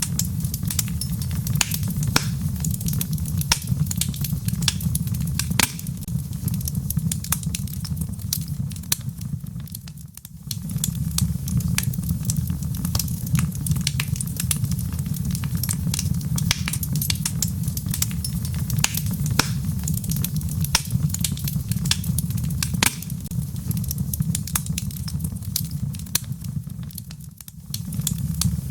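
Wood fire crackling and popping in a fireplace over a steady low rumble. The sound dips briefly about ten seconds in and again near the end.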